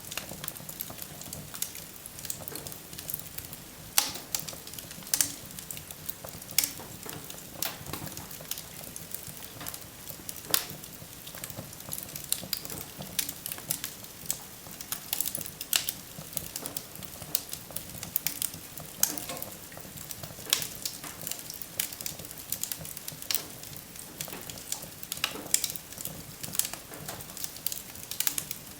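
Wood fire burning in a fireplace: a soft steady hiss with constant irregular crackling and occasional sharper pops as the logs burn.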